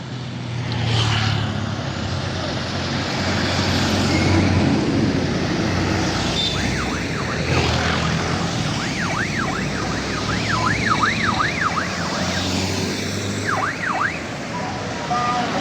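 Truck engines running with a steady low drone, while a siren yelps in fast up-and-down sweeps from about the middle of the stretch until near its end.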